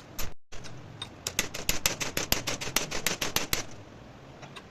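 A quick, irregular run of sharp clicks, several a second, like typing, stopping about a second before the end.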